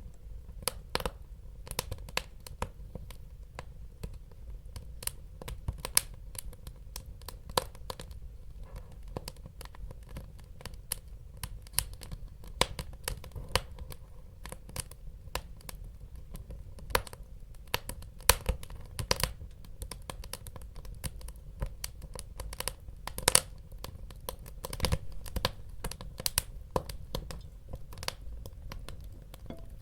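Wood fire burning in a fireplace: a steady low rumble with many irregular crackles and sharp pops.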